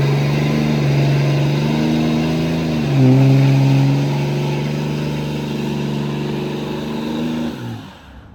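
Pickup truck engine revving and held at high revs, its pitch stepping up about three seconds in, then dropping away just before the sound cuts off.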